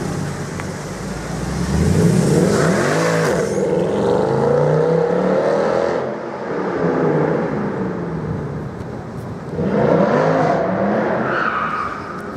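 Mercedes-Benz C63 AMG Edition 507's 6.2-litre V8 heard from inside the cabin, revving up and down through the gears. The engine note climbs sharply about two seconds in and again about ten seconds in, dropping back between pulls.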